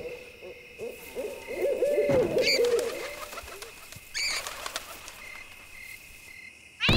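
Night-time ambience: a bird calling in low wavering coos for about two seconds, then two short high rising squeaks, over a faint steady high tone.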